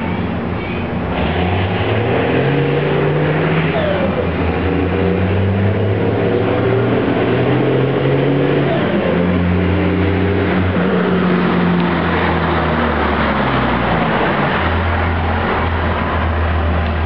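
Straight-piped Cummins turbo diesel truck engine accelerating, its note climbing and dropping several times through the run, then settling to a steadier, lower note near the end.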